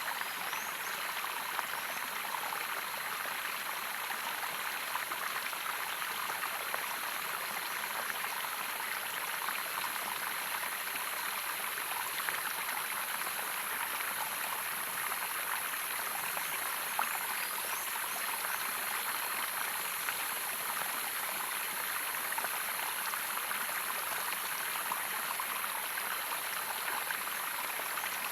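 Running water from a small waterfall, splashing and gurgling steadily, with a constant high-pitched drone above it.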